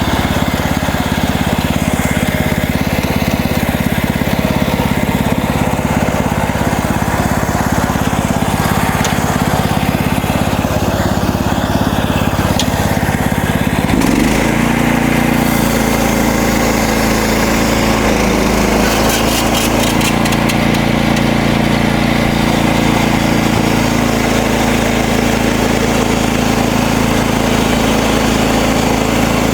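Gasoline engine of a MechMaxx portable bandsaw mill running steadily while the blade saws through a cedar log. About halfway through, the engine note shifts to a different steady pitch.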